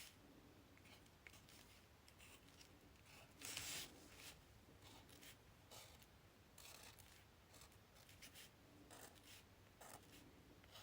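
Faint handling of paper craft materials: scattered soft rustles and scrapes, with one longer, louder rustle about three and a half seconds in.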